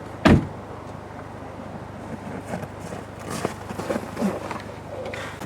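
A single loud, heavy thump just after the start, then scattered light knocks and handling sounds over a steady low hum.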